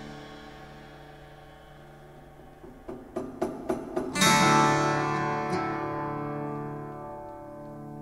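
Background music on acoustic guitar: a chord fading out, a quick run of strums about three seconds in, then a loud strummed chord about four seconds in that is left to ring.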